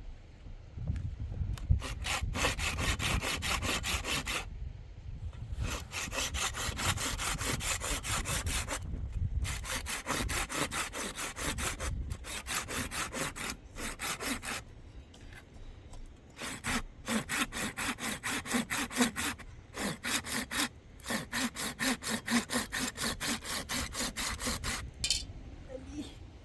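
Rhythmic back-and-forth rasping strokes, fast and regular, in bouts of a few seconds separated by short pauses.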